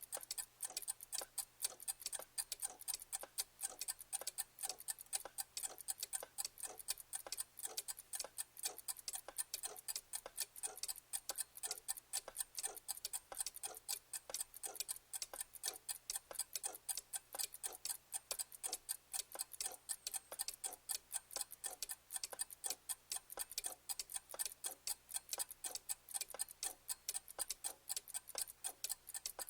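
Clock ticking in a fast, continuous run of sharp ticks, several a second.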